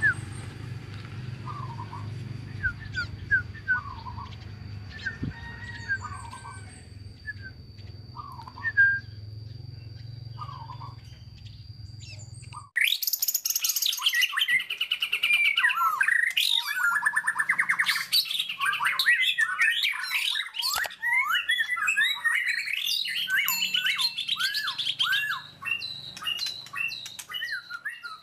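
A young caged bar-winged prinia giving short, scattered chirps over a low hum while it learns its twittering song. About 13 seconds in the sound cuts abruptly to loud, fast bird song full of rapid trills and upslurred notes.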